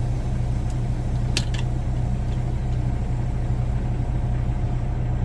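Truck engine idling steadily with a low, even hum. A single sharp click comes about a second and a half in.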